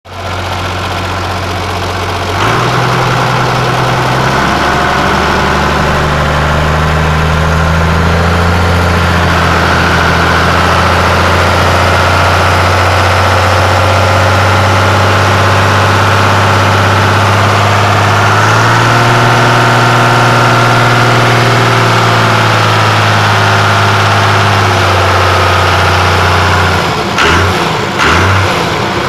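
John Deere 3650 tractor's diesel engine running steadily. Its speed steps up a couple of seconds in and changes again about two-thirds of the way through. Near the end the sound dips and comes back several times in quick succession.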